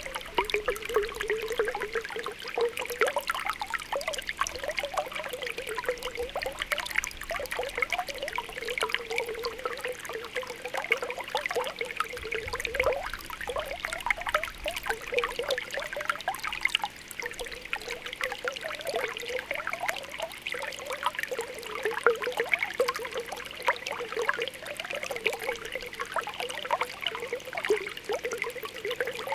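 Spring water welling up through a pool, popping and bubbling continuously in many small, irregular plops and gurgles.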